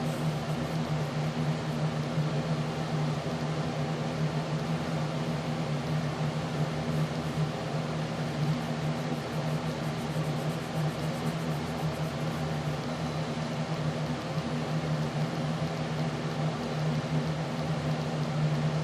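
Steady machine hum with a low droning tone and a faint hiss, unchanging throughout, like a fan or appliance running.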